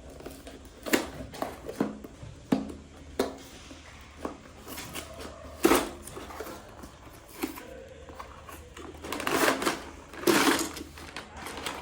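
Plastic LEGO pieces being handled and pressed together: irregular sharp clicks and knocks, with a longer stretch of rattling clatter about nine to ten and a half seconds in.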